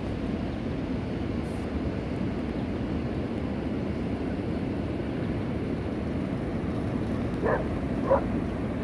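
Two short gull calls, about half a second apart, near the end, over a steady low rumble.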